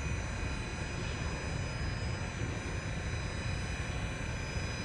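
TTC Toronto Rocket subway train standing at the platform, its equipment and ventilation giving a steady hum with a low rumble and a few thin high tones.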